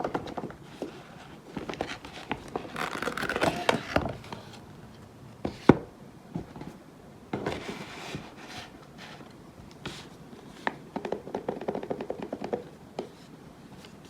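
Hands opening and handling a watch box and its packaging: irregular rustling and scraping with scattered sharp clicks and taps, the loudest click about six seconds in.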